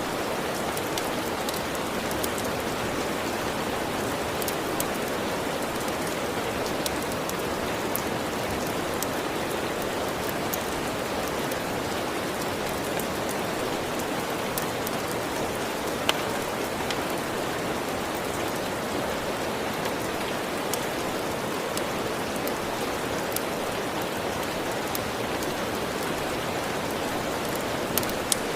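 Steady, even rain falling, with occasional sharp crackles from a wood fire, one about halfway through and a few near the end.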